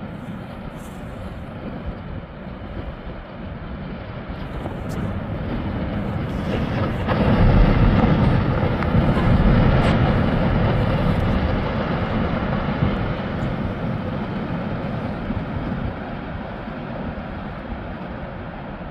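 Perito Moreno Glacier calving: a deep rumble of collapsing ice that swells about four seconds in, is loudest a few seconds later, then slowly dies away.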